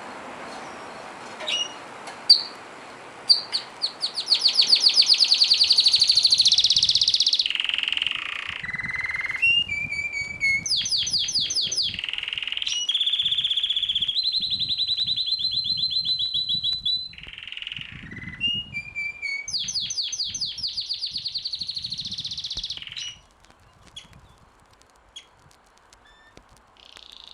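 A songbird singing a loud, varied song of fast trills and runs of rapidly repeated high notes, phrase after phrase with short pauses, fading to only a few faint calls near the end.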